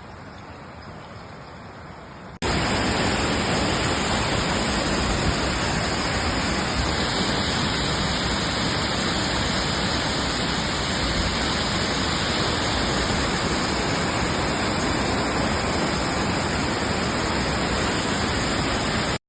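Waterfall with a steady, loud rush of falling water. A cut about two and a half seconds in jumps from a quieter rushing sound to the full rush.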